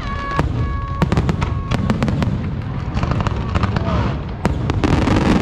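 Fireworks finale: aerial shells bursting in rapid succession, a dense barrage of overlapping sharp bangs over a constant low rumble, with a few brief whistling tones among them.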